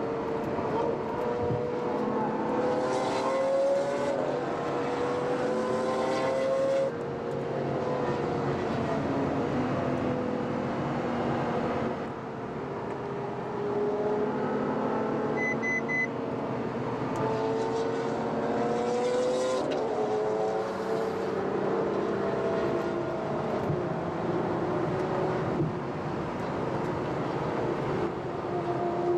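Ferrari FF's V12 engine pulling under acceleration, its pitch rising and then dropping back several times as it shifts up through the gears. A short triple beep sounds about halfway through.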